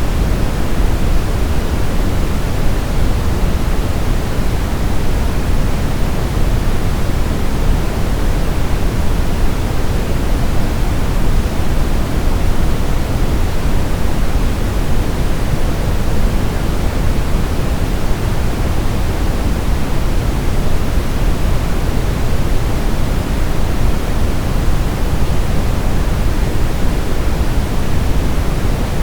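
Steady brown noise: a deep, even rushing hiss weighted toward the low end, unchanging throughout.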